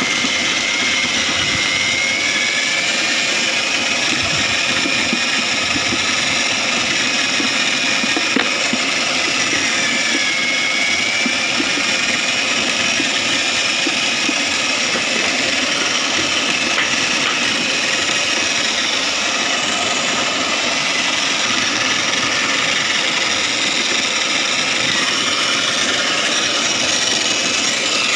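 Foam shredding machine running steadily, with a whine that wavers slightly in pitch over a dense mechanical rush.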